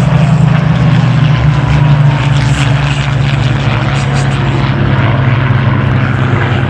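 Merlin V12 piston engines of a Hispano Buchon and a Curtiss P-40F fighter in flight, a loud steady low drone with a rushing noise over it, easing slightly about two seconds in.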